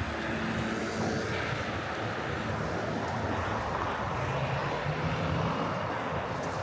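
Steady city street traffic: vehicle engines running and tyres rushing past in a continuous wash of sound.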